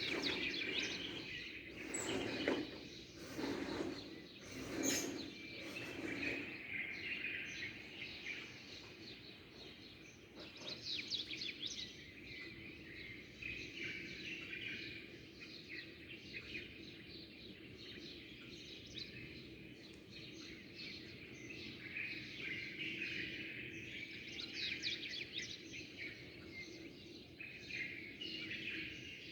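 Small songbirds chirping and twittering in a busy, overlapping chorus over a steady background noise, with several louder bursts in the first few seconds.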